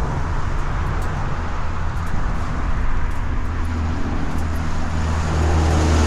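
Kawasaki Vulcan 900 motorcycle's V-twin engine running steadily under way, with wind and road noise over it; the engine note grows louder about five seconds in.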